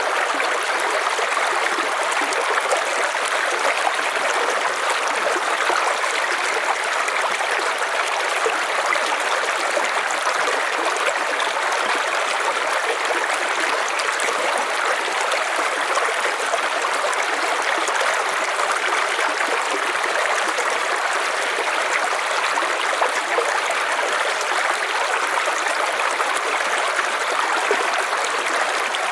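River water flowing steadily over stones, a constant rushing and babbling.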